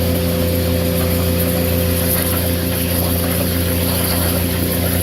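VacTron vacuum excavator running steadily: an even engine hum under the constant rush of its vacuum, while potholing with water to expose a buried pipe.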